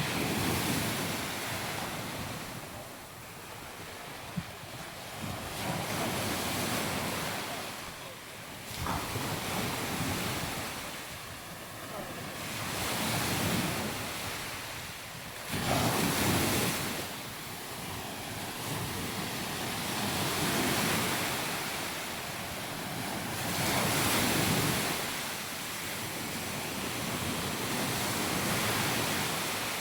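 Sea waves breaking and washing up the beach, the surf swelling and fading every few seconds, with wind buffeting the microphone. A single short click about four seconds in.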